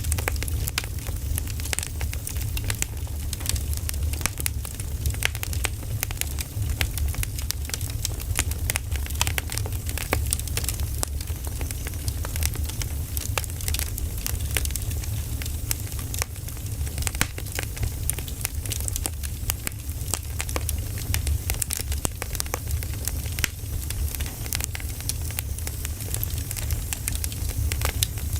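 Burning firewood crackling steadily: many small sharp pops and snaps over a low steady rumble.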